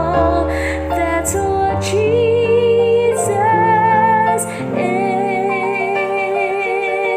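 Music: a woman singing held notes with vibrato over instrumental accompaniment, ending on a long held note from about five seconds in.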